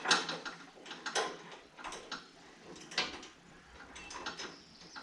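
A few sharp knocks and clatters of hand tools and parts being handled during mower reassembly, spaced irregularly about a second apart.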